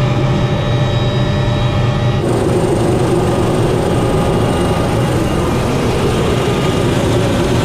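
Helicopter running steadily at close range, a loud even drone of engine and rotor with steady tones over it. About two seconds in, the sound changes abruptly to a brighter, fuller noise and then holds steady again.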